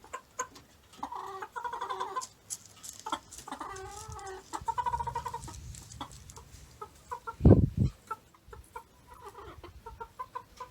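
Backyard chickens clucking, with several drawn-out warbling calls among short clucks. A loud low thump about seven and a half seconds in.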